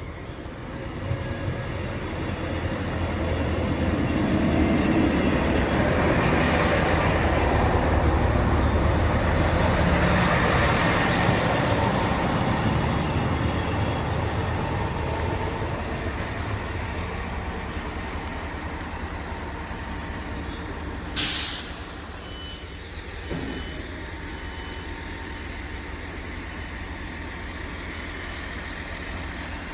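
A train running, its rumble building, holding and then slowly fading. About two-thirds of the way through comes a short, sharp hiss of released air, followed by a steady series of evenly spaced high beeps.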